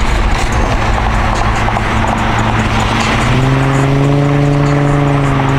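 Car engine and road noise while driving, from the turbocharged Mazda Miata. The engine hum steps up in pitch about three seconds in and then holds steady as the car speeds up.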